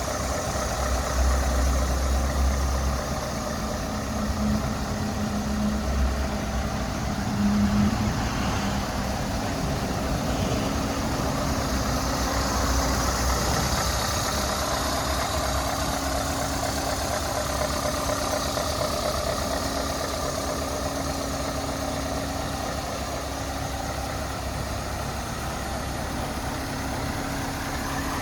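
Scania S 580 tractor unit's V8 diesel engine idling steadily, with a few brief louder surges in the first several seconds.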